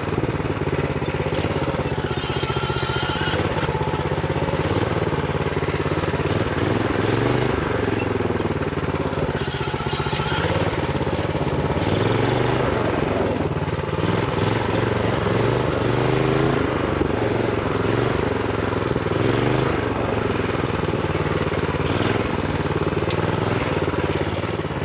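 Honda GX390 single-cylinder four-stroke engine on a minibike running under load off-road, its revs rising and falling with the throttle while held down by a throttle stop screw. A few brief high squeaks come through now and then.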